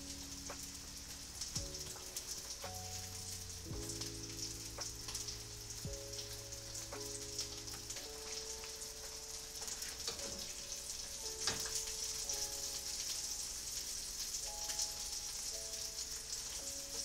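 Salmon fillets sizzling in hot oil in a frying pan, a steady hiss with scattered small pops. Soft background music with held notes plays underneath.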